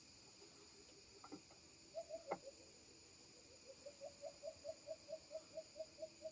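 Faint nature ambience: a steady high insect drone, with a run of short, evenly spaced pips at about five a second starting around the middle. A couple of soft knocks come before the pips.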